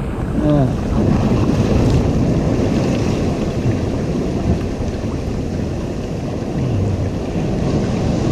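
Ocean surf breaking and washing in, with wind rumbling on the microphone.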